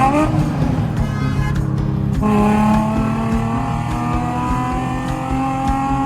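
Car engine under acceleration: a quick rev at the start, then from about two seconds in its pitch climbs steadily as it pulls through a gear.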